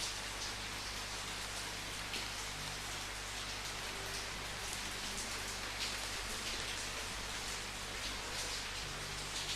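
Steady rain falling, an even hiss with scattered louder drops pattering on a surface.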